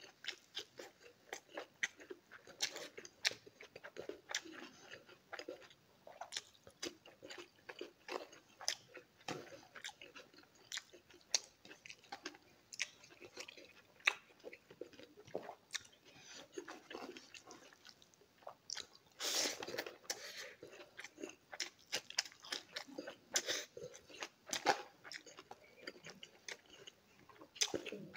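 Close-miked chewing and eating sounds of rice with stone fish curry eaten by hand: an irregular run of mouth smacks and clicks, with a louder patch about two-thirds of the way through.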